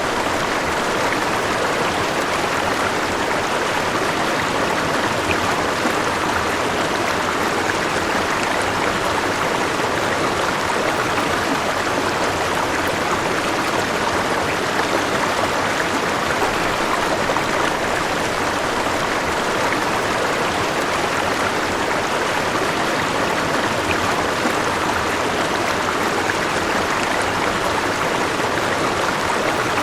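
River water flowing, a steady, unbroken sound of running water.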